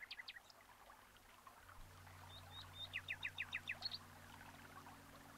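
Faint birdsong: scattered high chirps, and about three seconds in a quick run of six short downward-sliding notes, over a low steady hum that comes in after about two seconds.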